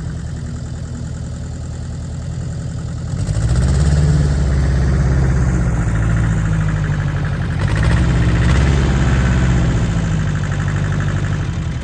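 Allis-Chalmers 5030 tractor's three-cylinder diesel engine running, its speed rising about three seconds in and again a little before eight seconds.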